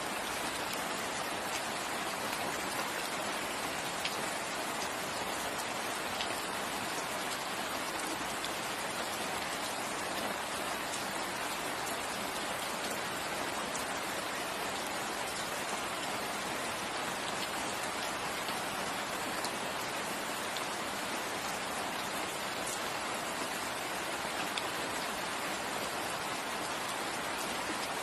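Steady rainfall pattering on leaves and ground in a forest, an even hiss of drops with an occasional louder single drop.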